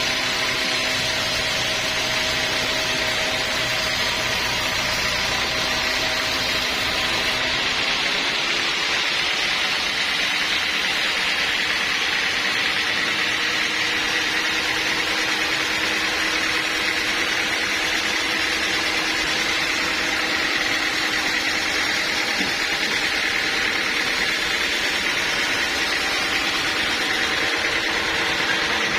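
Sawmill machinery running steadily with a loud hiss and several steady tones; about seven seconds in the low rumble falls away and the pitch of the tones shifts.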